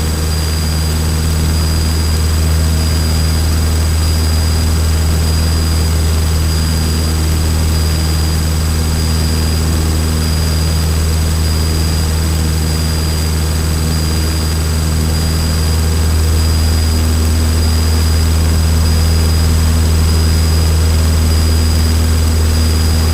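Cessna trainer's piston engine and propeller heard from inside the cockpit, a steady, unchanging drone at climb power.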